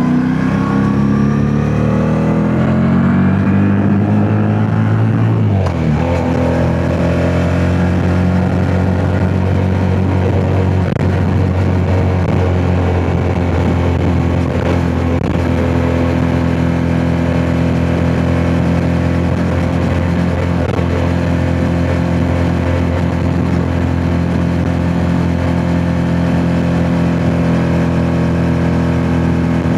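Yamaha MT-07 parallel-twin engine under way: the note climbs for about five seconds, drops sharply, then holds at a steady pitch while cruising. Wind noise on the microphone runs underneath.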